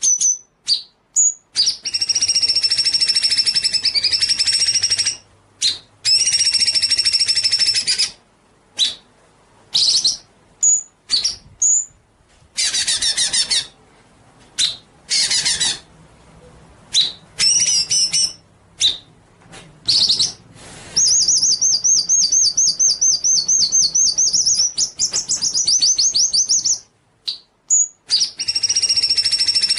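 Songbird song: long high, rapidly warbled phrases of a few seconds each, broken up by short sharp chirps and whistled notes, then a fast rattling trill lasting about six seconds near the end.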